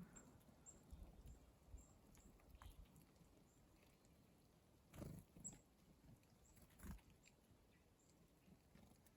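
Near silence with faint, very short high-pitched chips from black-capped chickadees, coming every half second or so, and two soft rustles about five and seven seconds in. There is no chick-a-dee alarm call: the birds are at ease.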